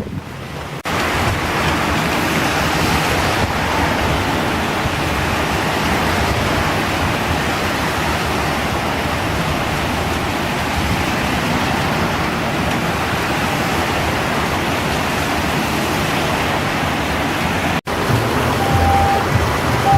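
Typhoon downpour: heavy rain and water rushing through an overflowing roadside gutter, a steady dense hiss. Near the end it cuts out briefly, and short beeping tones start over a low rumble.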